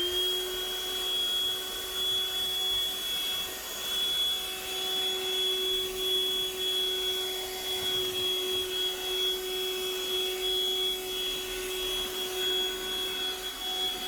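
Small car vacuum running steadily: a motor hum with a thin high whine over the hiss of the airflow. Its suction is weak: it has to be held on the floor for about five seconds to pick up one or two things.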